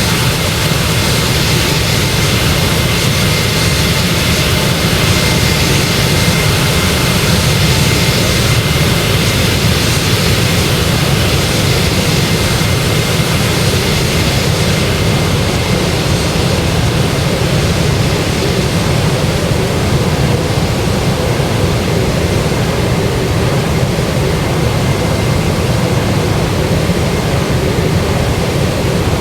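Boeing 737-800's CFM56 jet engines running at high power: a steady, loud roar with a thin high whine running through it. The hissing top of the roar eases off about halfway through.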